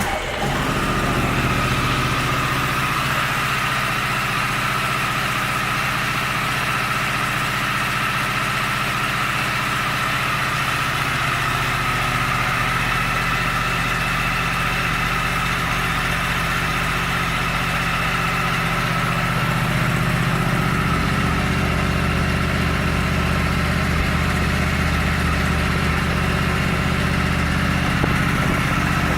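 2014 Yamaha YZF-R1's 998 cc crossplane inline-four engine idling steadily just after a start. The engine note shifts slightly about twenty seconds in.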